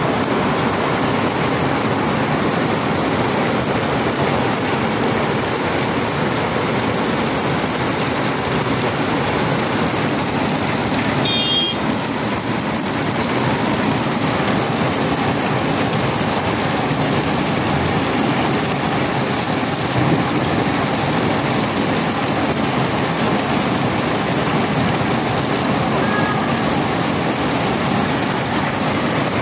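Heavy rain pouring steadily onto pavement and parked cars, a dense even hiss, with a brief high chirp about eleven seconds in.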